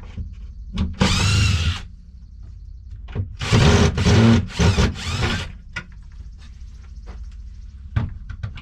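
Cordless drill backing screws out of wood: its motor spins up and winds down in one run of about a second, then in four shorter bursts a couple of seconds later, with small clicks and knocks in between.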